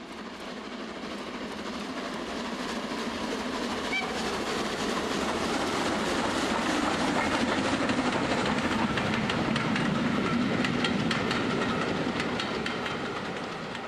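A train passing: steady running noise with rapid clicking of wheels over rail joints, swelling to its loudest past the middle and fading away near the end.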